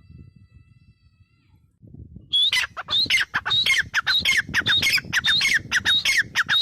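Gray francolin calling. After a faint low rumble, a loud, rapid run of harsh repeated notes starts a couple of seconds in, several a second, each note dropping in pitch.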